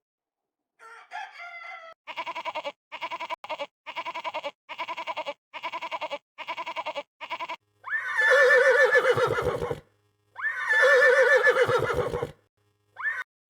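Farm animal calls: a run of about ten short, evenly spaced calls, then two long, wavering bleats.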